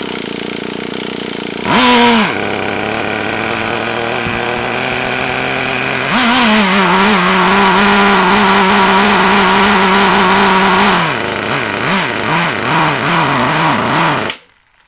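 Small nitro engine of a Traxxas T-Maxx RC truck running, with a short rev about two seconds in, then held at higher revs from about six to eleven seconds. Its speed then hunts up and down before it cuts out suddenly near the end: a stall, with the carburettor's low-end mixture still out of adjustment.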